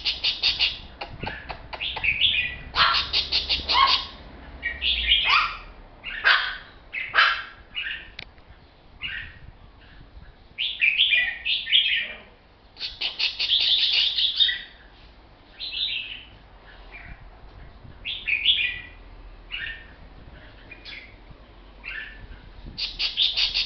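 Caged red-whiskered bulbul calling in long runs of rapid chattering 'rik' notes, bursts of a second or two again and again with short pauses between: the long rik calling that bulbul keepers prize, here near full.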